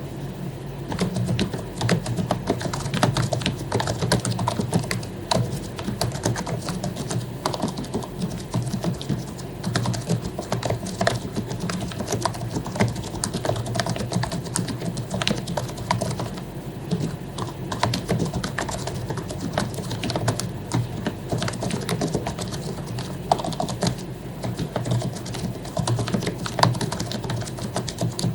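Continuous typing on an HP membrane keyboard with lubricated keycaps: a dense, irregular run of key presses with no pauses.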